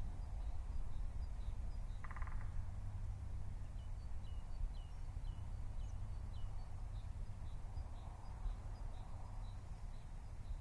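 Small birds chirping faintly: many short high chirps, a run of quick falling notes in the middle and one brief call about two seconds in, over a steady low rumble.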